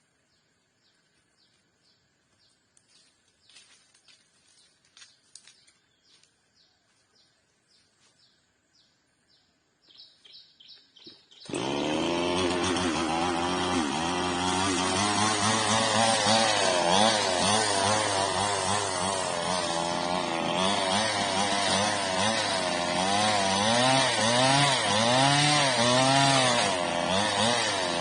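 Faint clicking for about ten seconds, then a two-stroke chainsaw starts about eleven seconds in and runs loudly. Its engine speed rises and falls again and again as it cuts back the old frond stubs on an oil palm trunk.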